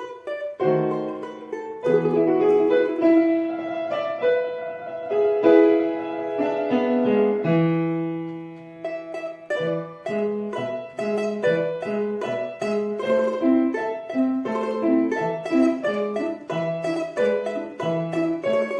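Piano accompanying a plucked string instrument in a lively children's recital piece. The music thins to held notes about halfway through, then picks up again with quick, short notes.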